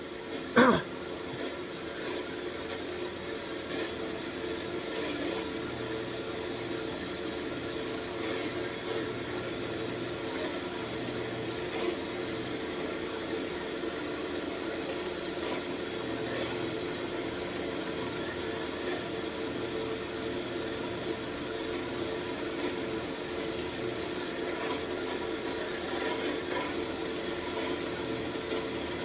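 Wood lathe running steadily while a strip of denim is pressed tight against the spinning walnut wand to burnish its hot-wax finish. A brief sliding squeak sounds just under a second in.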